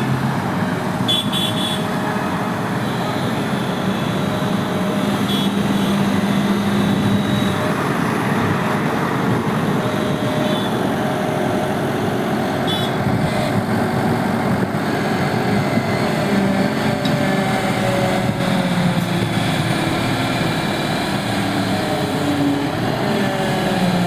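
Heavy diesel earthmoving machinery, such as an excavator, running steadily at work, its engine pitch wavering slightly. A few short knocks sound now and then.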